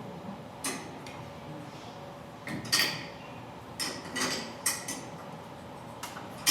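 Irregular sharp metallic clicks and clinks of a hand tool working the safety set screws on a garage door torsion-spring cable drum, tightening them so the drum holds its position.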